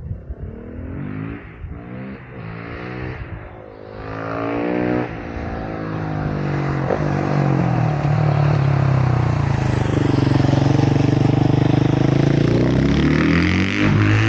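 KTM 690 SMC R's single-cylinder engine accelerating hard through several quick upshifts, its pitch climbing and dropping back with each gear change. It then pulls at steady high revs, easing slightly and climbing again near the end.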